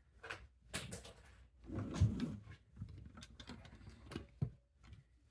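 Plastic Lego pieces being handled: scattered clicks and knocks, with a longer rustle about two seconds in.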